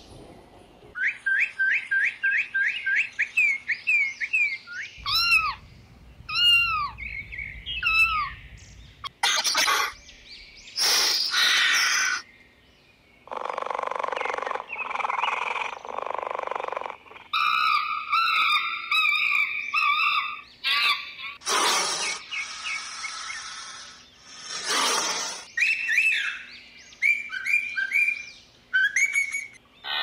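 Animal chirping and whistled calls: runs of quick, rapidly repeated chirps, curved whistles around six to eight seconds in, and several harsher, noisier calls in between.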